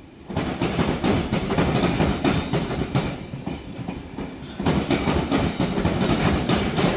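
Passenger train coaches rolling past close by: a low rumble of wheels on rails with a rapid run of clicks as the wheels clack over rail joints, easing slightly for a moment midway.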